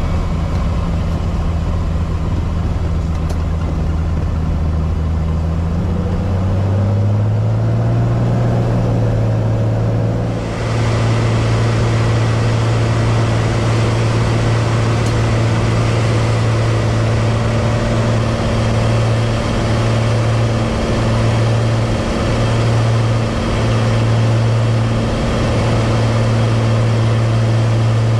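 Cessna 185 Skywagon amphibian's piston engine and propeller droning steadily under approach power, heard from the cockpit; the drone rises in pitch about seven seconds in. About ten seconds in, a loud hiss of rushing water sets in and holds as the floats touch down and run along the water.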